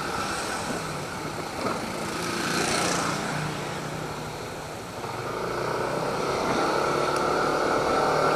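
Yamaha NMAX 155 scooter's single-cylinder engine running steadily while riding, with wind noise rushing over an action camera's built-in microphone. It gets a little louder after about five seconds.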